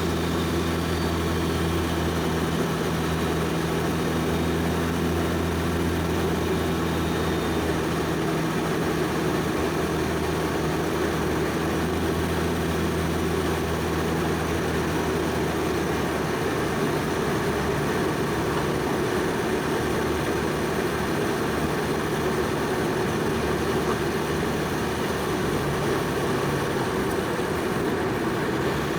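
Toyota Soarer's single-turbo 1JZ inline-six engine running at a steady cruise, a constant low drone. About halfway through, the even engine note gives way to a rougher rushing sound.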